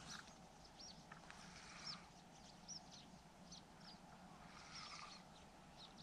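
Faint small-bird chirping: many short, high chirps scattered irregularly, over a faint low steady hum.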